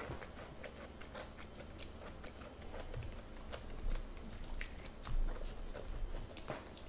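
A person chewing a mouthful of food close to the microphone: quiet, soft wet mouth clicks and smacks, with a few slightly louder bumps near the middle and end.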